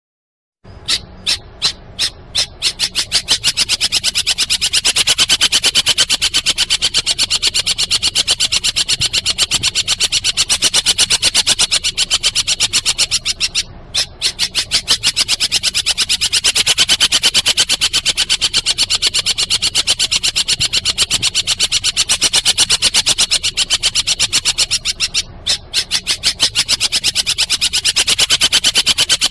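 A high, rapid clicking trill played as a bird-training recording of the call known in Indonesia as the 'kuntilanak' sound. It starts as a few separate clicks that speed up into a fast continuous rattle, breaks off briefly, and starts again about every twelve seconds, with a low hum beneath.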